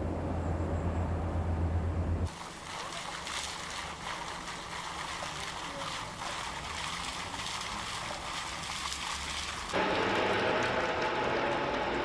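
Trackside TV sound from a Formula One race that changes suddenly twice as the picture cuts. First a low engine hum, then a steady hiss of water and spray, then a louder mid-pitched engine drone from about ten seconds in.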